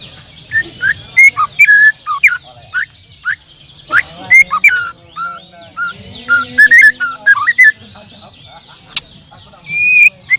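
White-rumped shama singing a run of loud, varied whistled phrases, each note a short slur or glide, over a dense chorus of other caged songbirds chirping higher up.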